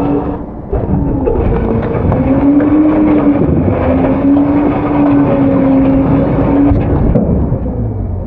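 Autocar-Heil Freedom front-load garbage truck working its hydraulics: the engine runs under load with a steady, slightly wavering hydraulic whine as the packer compacts garbage. The whine eases off about seven seconds in.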